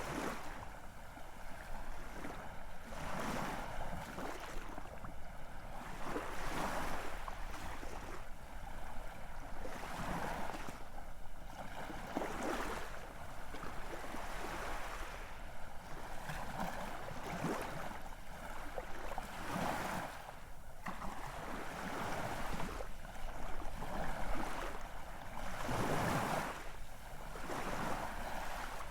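Ocean waves breaking and washing in, the surf rising and falling every two to three seconds.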